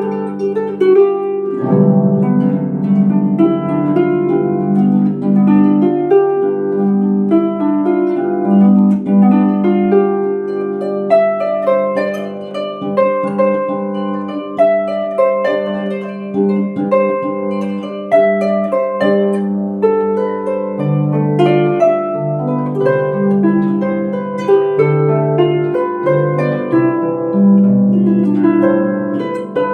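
Celtic harp playing a melody over a plucked accompaniment, the notes ringing on.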